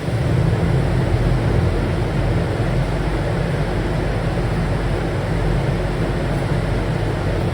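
Industrial pressure ventilation fan running steadily: a loud, even rush of air over a low hum.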